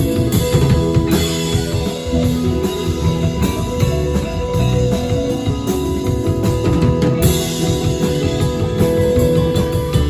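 Live rock band playing an instrumental jam, with guitar and drum kit and no singing.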